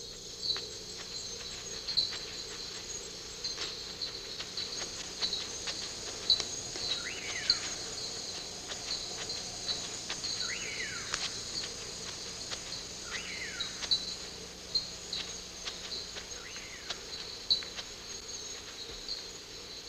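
Night chorus of rainforest insects: many short chirps repeating rapidly over a steady high trill, with scattered sharp clicks. A separate call sweeping down in pitch comes four times, about every three seconds, through the middle.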